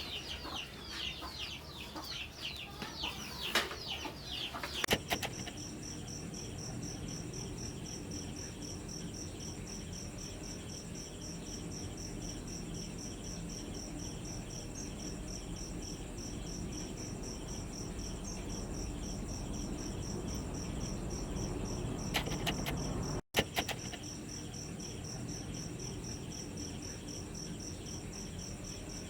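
Chickens clucking and peeping in quick short calls for the first five seconds, then a cricket chirring in a steady high pulsing trill. A few clicks come near the end, followed by a brief cut-out.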